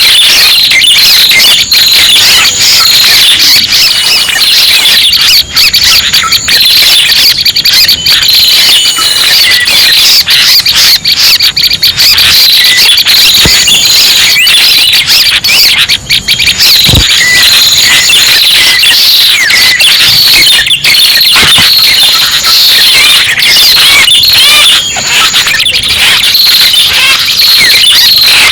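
Lure recording of red-headed prenjak calls played for bird trapping: a dense, unbroken chatter of fast, high-pitched squeaky notes, played very loud.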